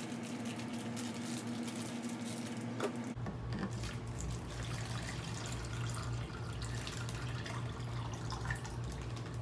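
Water sloshing, trickling and dripping as fish are moved from their bag into a plastic tub, over a steady low hum.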